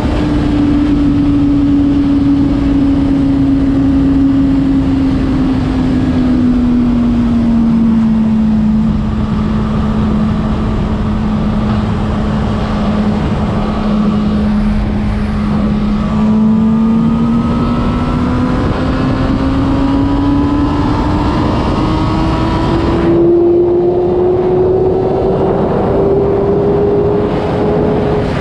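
Honda CBR600RR inline-four engine running at a steady road speed under heavy wind rush; its note slowly sags over the first several seconds, holds steady, then climbs gradually through the second half without abrupt shifts.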